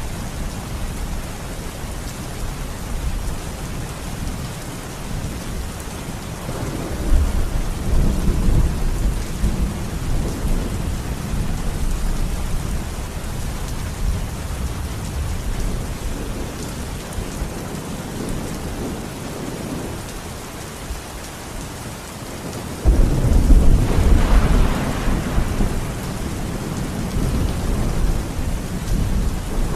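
Steady rain falling with rolling thunder: a rumble swells about a quarter of the way in, and a louder thunderclap breaks in suddenly about three quarters through, then rolls on.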